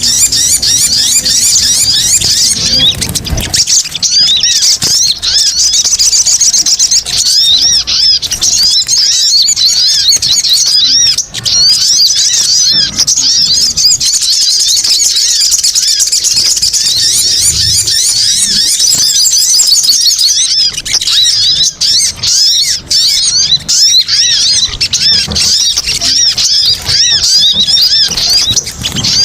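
Sunbirds chattering excitedly: a continuous, dense stream of rapid high-pitched twittering calls from several birds, played as a lure recording.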